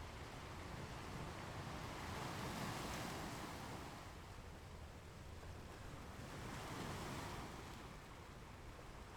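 Ocean surf washing onto a beach: two gentle swells of wave noise a few seconds apart, over a steady low rumble.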